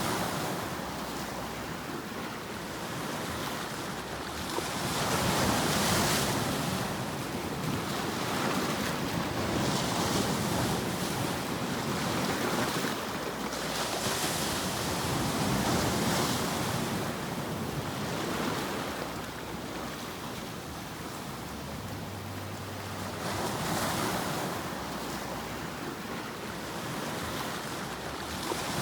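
Sleep white-noise track: an even rushing noise that swells and fades every few seconds, like surf washing in and drawing back.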